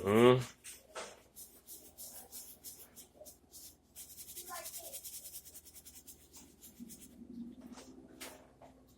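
Light rubbing, scratching and tapping as seasoning is worked onto raw chicken, with a steadier hissy stretch near the middle. A short voiced sound right at the start.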